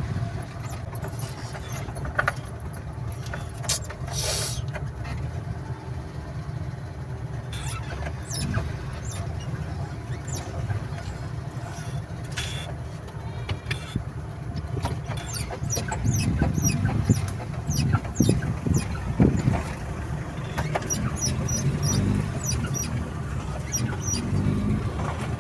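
Truck driving along a mountain road, heard from inside the cab: a steady low engine and road rumble with frequent light clicks and rattles.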